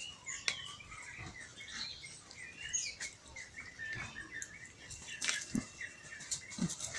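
Small birds chirping: many short, overlapping calls keep going throughout, with a few faint clicks and soft knocks among them.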